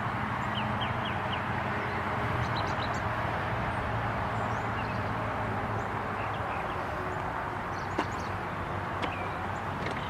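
Outdoor ambience: a steady background hiss with a low hum, and birds chirping in short, high calls on and off. There are two sharp clicks near the end.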